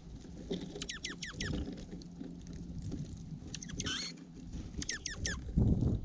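Small birds feeding on a seed tray right at the microphone: scattered pecking taps and rustles, broken by three quick bursts of three or four sharp chirps that sweep downward. A louder thump comes near the end.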